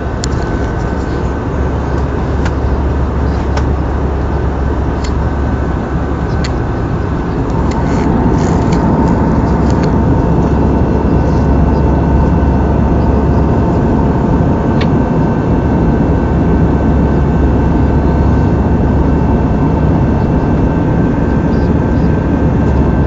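Airliner cabin noise in flight: a steady roar of jet engines and airflow with a faint steady whine, getting slightly louder about eight seconds in, with a few light clicks.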